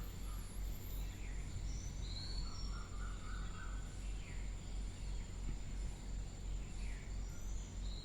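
Steady low background hum with a thin high whine, and a few short faint chirps scattered through it.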